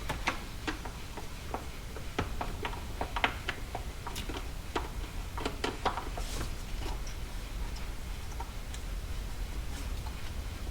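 Irregular light clicks and taps of hand work on the fuel rail and injectors, denser in the first half, over a faint low hum.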